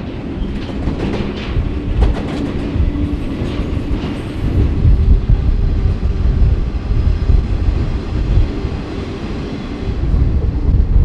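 Freight train rolling along the rails, heard from on board an open intermodal flatcar: a steady low rumble of wheels and car body, with a few sharp knocks about two seconds in and the rumble growing louder about halfway through.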